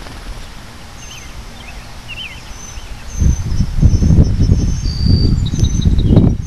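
Wind buffeting the microphone in uneven gusts that grow much louder about three seconds in, with small birds chirping and whistling faintly above it.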